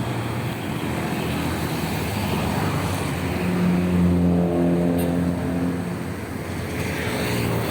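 A motor vehicle's engine passing by: a steady engine note grows louder to a peak about halfway through, then fades.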